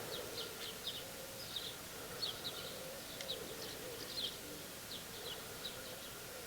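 Faint outdoor quiet with a small bird's short, high chirps repeating irregularly throughout, over a faint wavering buzz of a flying insect.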